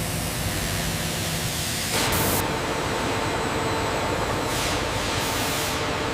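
Wood-processing machinery running steadily, a loud rushing hiss over a hum. About two seconds in there is a short louder burst, and the hum changes to a higher, steadier tone.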